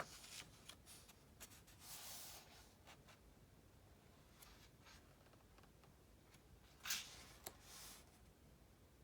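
Soft paper rustles and light taps of a printed book being handled, its pages turning: a short rustle about two seconds in and a sharper rustle with a tap near the end.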